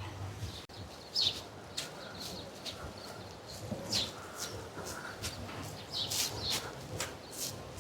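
Small birds chirping a few short calls, over a row of footsteps crunching about twice a second.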